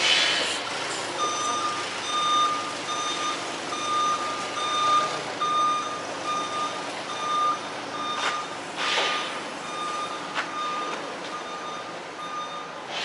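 Truck's backup alarm beeping steadily, about two beeps a second, starting about a second in, over a running engine. A short hiss comes through partway.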